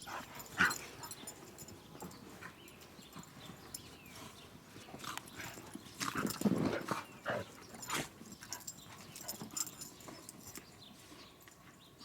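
Dogs romping in deep snow: scuffling paws and short rustles, with a brief dog vocal sound about six and a half seconds in.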